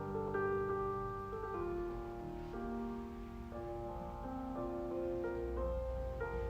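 Soft background piano music, slow notes held and changing every second or so.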